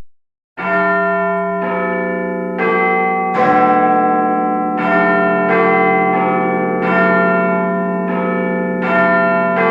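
Church bells ringing: several bells of different pitch struck one after another, roughly one strike a second, each ringing on under the next. The sound cuts in after a brief silence at the very start.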